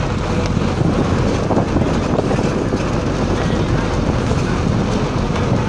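A vehicle moving along with a steady rumble of engine and road noise.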